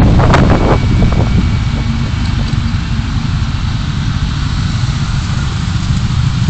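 Car driving, heard through a dashcam microphone as a steady low rumble of road and engine noise, with a few short knocks in the first second.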